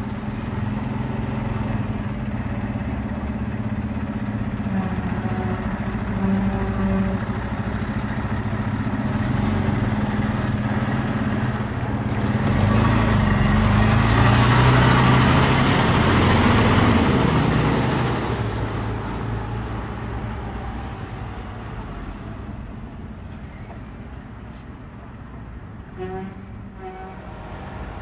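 Heavy fire truck's diesel engine running as it approaches, passes close by about halfway through with a loud rush of engine and tyre noise, then fades away.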